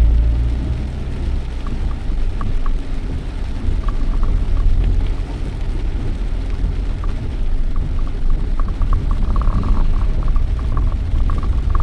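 Steady low rumble of a car driving, with a hiss of road or rain noise over it and faint short ticks in the second half.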